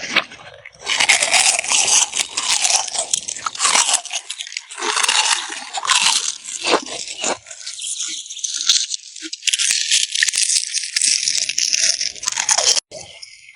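Repeated crunching and scraping in long, loud bursts, broken by sharp clicks, with short pauses between bursts.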